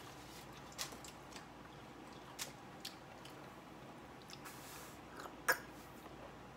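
A person chewing and biting salad, with scattered soft clicks and one sharper click about five and a half seconds in.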